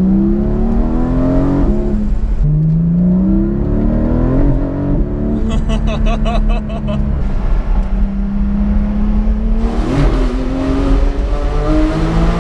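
Porsche 718 Cayman GT4's 4.0-litre flat-six engine pulling hard through the gears from inside the cabin, its pitch climbing and then dropping sharply at each quick PDK upshift. It settles at a steady pitch midway, then climbs again near the end.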